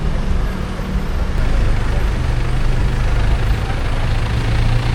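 Road traffic: a vehicle engine's low hum, which drops in pitch about a second and a half in, over steady road noise.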